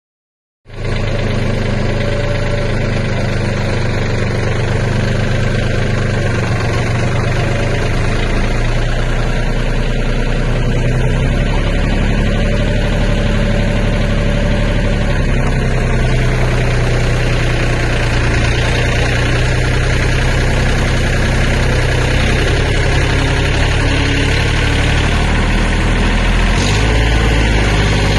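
Mahindra tractor's diesel engine running steadily at a low, even pitch. It starts abruptly and grows a little deeper and heavier near the end.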